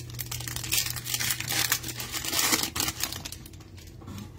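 Plastic trading-card pack wrappers crinkling and rustling as packs are torn open and cards are handled, over a steady low hum.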